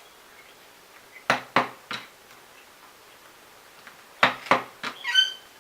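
Sharp clicks of a hand tool cutting off excess material from a model roof piece: three quick clicks, then three more a few seconds later, ending in a brief high squeak.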